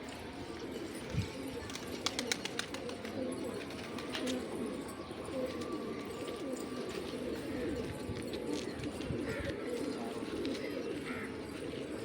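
A flock of pigeons cooing, many low coos overlapping continuously, with a few sharp clicks about two seconds in.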